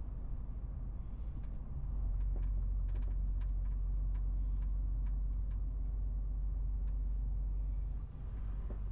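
MAN TGX 18.470 truck running on the road, heard from inside the cab as a low drone of six-cylinder diesel engine and road noise. The drone grows louder about two seconds in and drops back near the end, with scattered light clicks and rattles in between.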